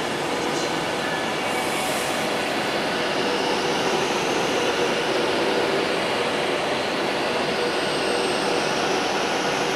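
A train moving along the track: a steady noise of wheels on rail with a few faint steady tones.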